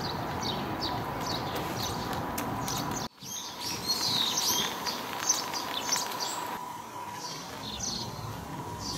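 Small birds chirping, short falling calls again and again, over a steady outdoor background hiss with a faint steady whine. The sound drops out for an instant about three seconds in and picks up again.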